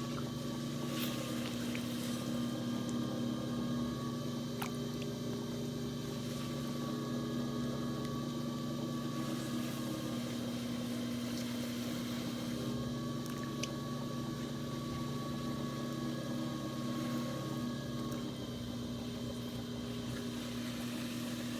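Electric potter's wheel motor running steadily with a constant hum while clay is thrown on it, with a few faint clicks.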